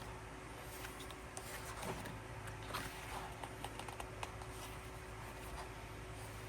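Album packaging and its paper contents being handled: scattered light rustles and small clicks, busiest from about one to four seconds in, over a steady faint hum.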